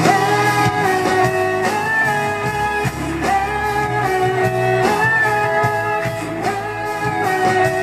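Live pop band playing an instrumental break between vocal lines, with a melodic electric guitar line over bass and drums; the singer holds the last syllable of a line about a second in.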